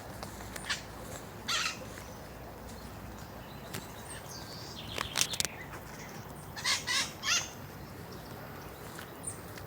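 Birds feeding in a tree, calling in short, shrill squawks. The calls come one or two at a time, with a quick cluster about halfway through and three more a little later.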